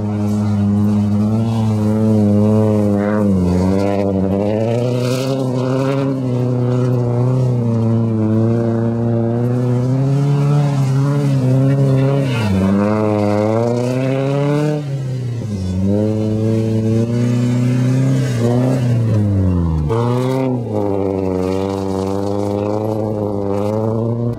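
Nissan 240SX's KA24DE four-cylinder engine revving hard and held at high revs during a drift on grass. The pitch wavers and dips several times before swinging back up, the deepest dip about four-fifths of the way through.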